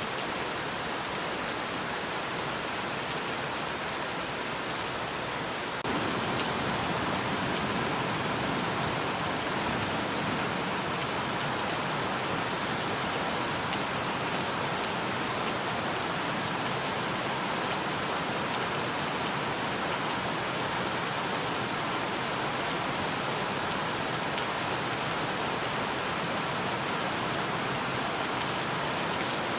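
Steady rain falling, a dense even patter of drops, which grows a little louder and fuller about six seconds in.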